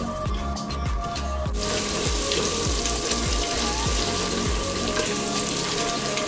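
Blended turmeric spice paste sizzling as it is stir-fried in oil in a stainless steel pot. The sizzle starts suddenly about a second and a half in, over background music with a beat that drops away about five seconds in.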